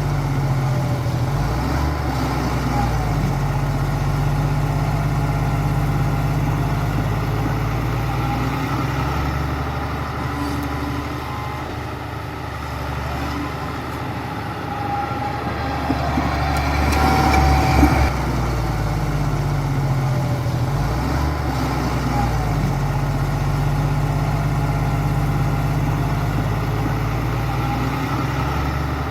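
Diesel engine of heavy earthmoving machinery running under load, its pitch rising and falling as it works, loudest about two thirds of the way through, with brief high metallic squeals.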